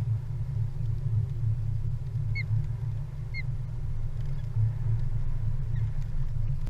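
Steady low rumble of wind buffeting the nest camera's microphone, with two short high osprey chirps about a second apart near the middle.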